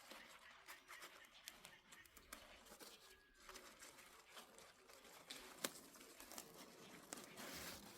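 Faint rustling and crinkling with many small scattered clicks, one sharper click about five and a half seconds in.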